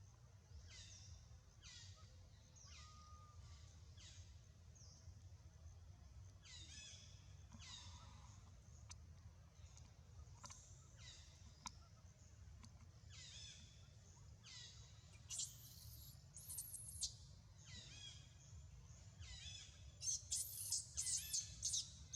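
Baby monkey crying: a run of short, high-pitched, falling cries about once a second, growing louder and shriller into a burst of screams over the last couple of seconds.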